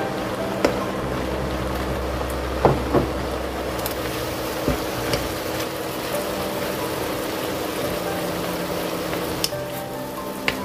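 Konjac and shishito peppers sizzling in a wok in the last of a soy-based braising sauce while being stirred with a wooden spatula. A couple of sharp knocks of the spatula against the pan come about three seconds in.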